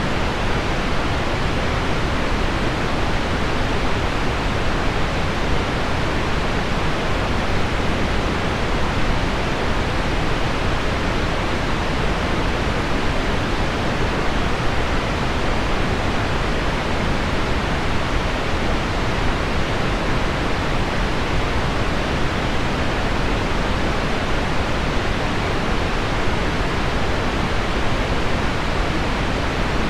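Heavy rain on window glass blended with deep pink noise: a steady, even hiss, dull at the top, with no single drops standing out.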